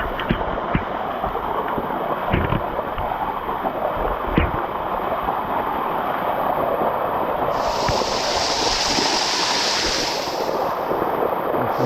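Water of a cascading waterfall rushing steadily over rock close by, with a few sharp knocks in the first half and a brighter hiss joining about two-thirds of the way through.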